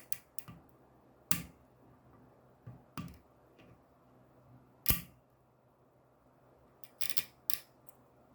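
Several short, sharp clicks and knocks at irregular intervals in a quiet room, the loudest about five seconds in and a close pair near the end.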